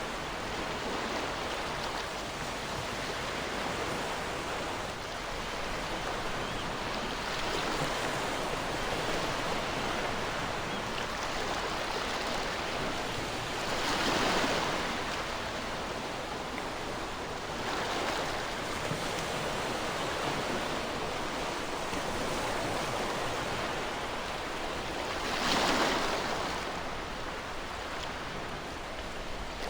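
Ocean waves washing onto a shore in a continuous rushing surf, with two louder breakers swelling up, one about halfway through and one near the end.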